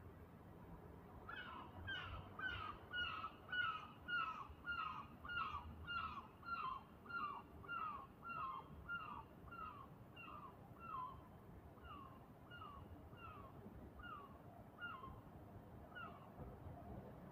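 A bird calling in a long series of short, downward-sliding calls, about two a second at first, then spacing out and fading, over a faint low hum of the street.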